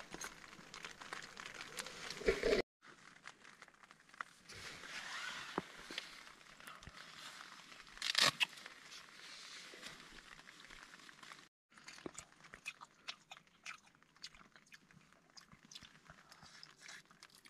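A person eating chicken curry by hand: faint chewing and biting, with scattered small clicks and taps and a louder burst of sound about eight seconds in.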